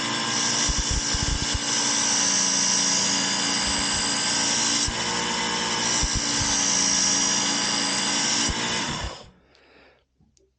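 Work Sharp belt sharpener running with its coarse grinding belt, a steel broadhead being ground against the moving belt in two passes. The motor runs down and stops about nine seconds in.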